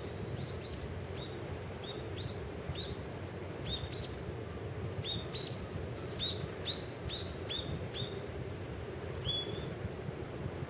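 A bird chirping in a quick series of short, high calls that come thickest in the middle, with one longer call near the end, over a steady low rumble.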